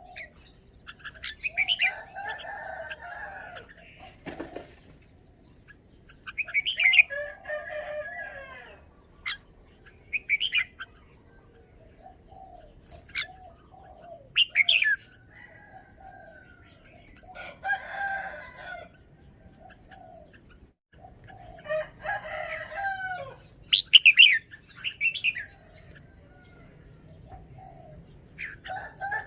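Red-whiskered bulbul singing short, varied song phrases every few seconds, with softer notes in between. A single sharp click comes about four seconds in.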